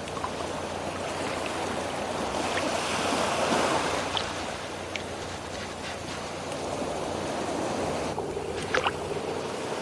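Underwater ambience: a steady wash of water noise that swells a little near the middle, with a few faint clicks.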